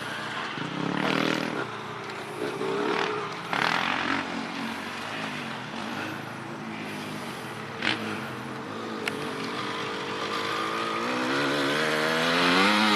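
Honda CRF450 motocross bike's single-cylinder four-stroke engine revving up and down on the track. It is quieter through the middle, with a few short sharp bursts, then grows louder over the last few seconds as the revs climb.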